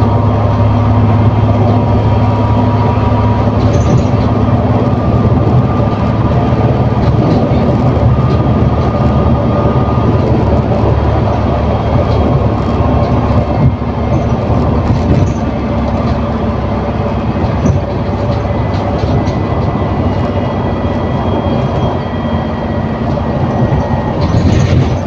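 ADL Enviro400 City double-decker bus with a Voith automatic gearbox, engine and driveline running steadily under way, heard from inside the bus. Short rattles and clicks from the body come through the drone from about halfway, and the drone eases a little about 14 seconds in.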